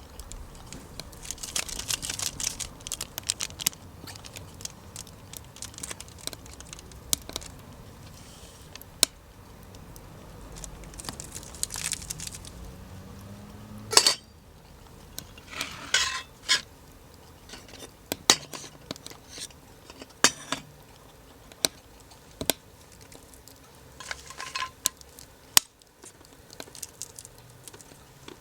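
Small wood fire crackling with scattered sharp pops, while metal cookware is handled: a few loud clinks, some with a short metallic ring, and two brief bursts of rustling or crinkling.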